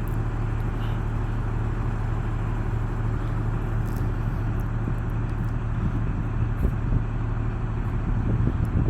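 Class 43 HST power car diesel engine running steadily: a constant low drone with a rushing hiss over it, unchanging throughout.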